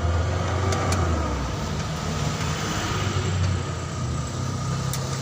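A steady low engine hum, as of an engine running nearby, swelling and easing slightly, with one sharp click about five seconds in.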